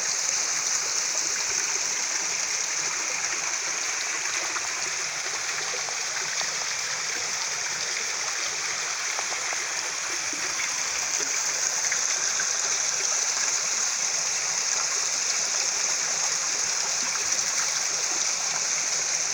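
Mountain waterfall and stream water falling and rushing steadily, an even hiss-like splash with no breaks.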